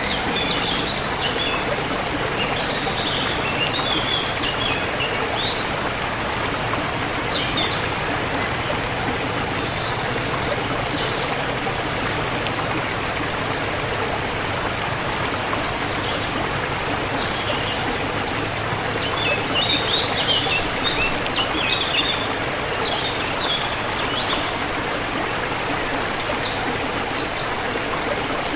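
Forest river water flowing steadily, with birds chirping in short scattered calls over it, busiest about two-thirds of the way through.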